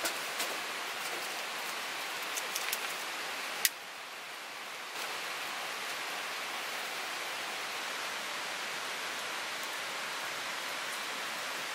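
Steady, gentle rain falling, an even hiss of drops with a few louder single drips and one sharp tap a little under four seconds in.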